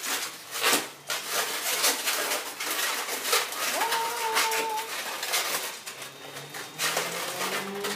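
Latex modelling balloons squeaking and rubbing against each other as they are twisted and connected together, with one longer squeak that slides up and holds about halfway through.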